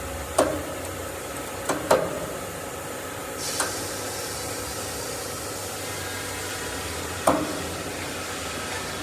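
Steady machinery noise with sharp knocks: one just after the start, two close together about two seconds in, and one near the end, plus a short hiss about three and a half seconds in.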